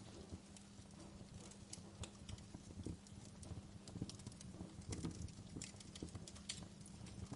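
Fireplace fire crackling: scattered sharp pops at an irregular pace over a low, steady rumble.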